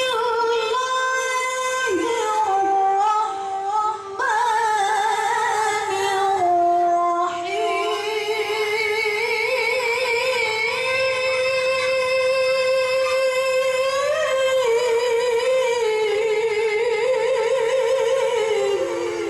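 A woman reciting the Quran in the melodic tilawah style, in a high voice: long held notes with fast wavering ornaments. She breaks off briefly twice, then holds one long phrase for about eleven seconds.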